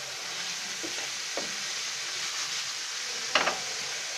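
Cubed chicken breast sizzling steadily as it fries in hot oil in a pan. A spatula stirs and turns the pieces, clicking against the pan a few times, loudest about three and a half seconds in.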